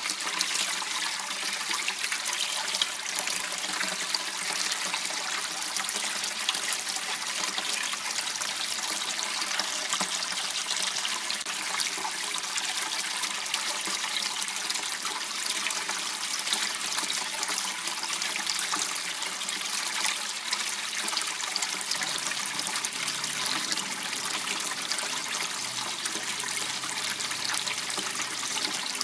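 Steady trickling and splashing of water flowing in a small canal.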